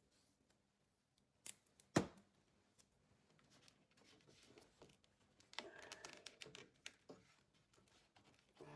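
Near silence with two sharp clicks about two seconds in, then faint rustling and small knocks of handling.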